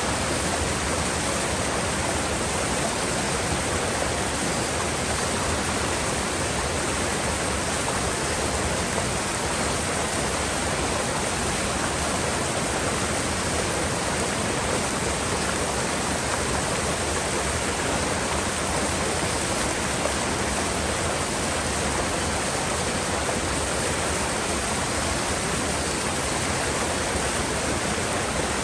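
Rushing water of a mountain river, a steady, even rush with no single splash or other sound standing out.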